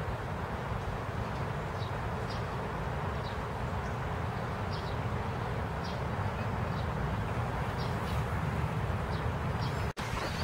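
Steady rain falling on a garden's paving and foliage: an even hiss with a low rumble under it. A few faint, short, high chirps are scattered through it, and the sound drops out for an instant near the end.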